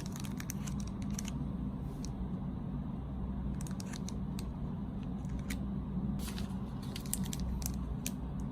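Scattered short clicks and crinkles of snack packaging being handled, over a steady low hum.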